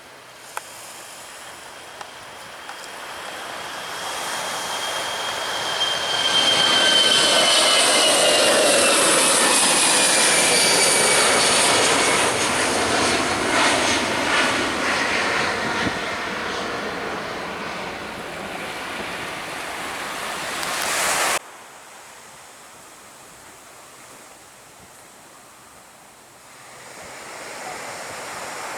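Jet airliner passing low overhead: its engine noise swells over several seconds, with a whine that falls in pitch as it goes by, then fades and cuts off suddenly about two-thirds of the way through. Quieter surf follows.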